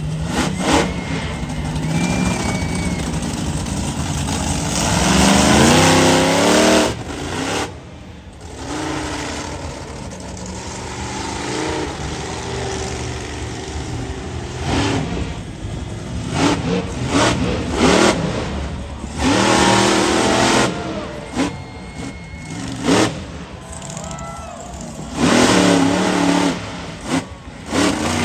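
Monster truck engine revving hard in repeated throttle bursts, its pitch climbing several times and then dropping off suddenly.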